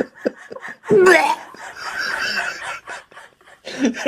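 People laughing and exclaiming, with one loud cry rising in pitch about a second in.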